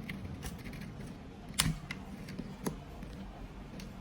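A sharp snip about one and a half seconds in, then a smaller click about a second later, among faint handling ticks: side cutters snipping the plastic cable tie that binds the splicer's internal cables.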